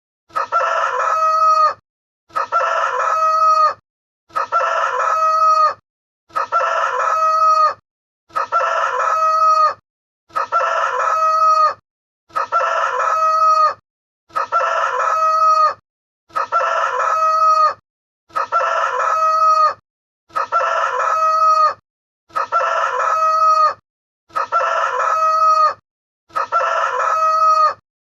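The same recorded rooster crow played over and over, one crow about every two seconds, each cut off abruptly before a brief gap.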